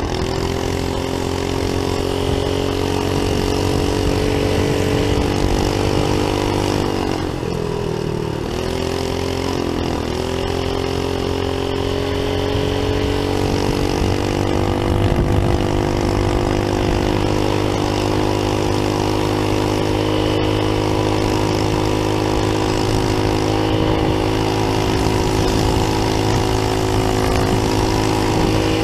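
Briggs & Stratton small engine of a homemade trike mini bike running steadily, its speed dipping briefly twice, about seven and ten seconds in, before picking back up.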